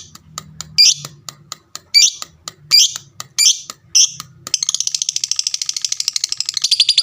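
Lovebird calling: sharp, high shrieks every half-second to second, then from about four and a half seconds in a fast, unbroken chattering trill of about ten notes a second, the long 'ngekek' song.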